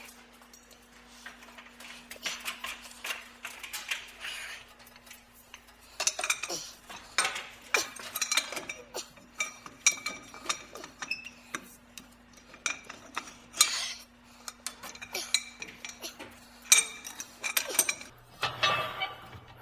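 Pipe wrench and other metal tools clinking and knocking against steel pipe fittings in irregular sharp strikes with brief ringing, while a tight fitting is worked loose. A faint steady hum runs underneath.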